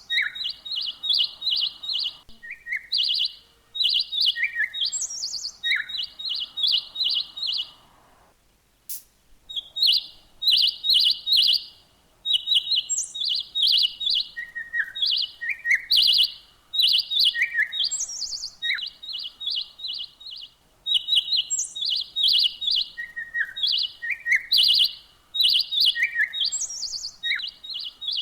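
Small songbirds chirping: quick runs of five or six even, high chirps, mixed with single higher and lower notes, with a short pause about eight seconds in.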